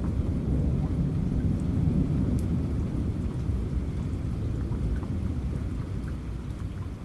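Low rolling rumble of thunder that swells in the first few seconds and slowly fades, over steady rain with scattered drip ticks.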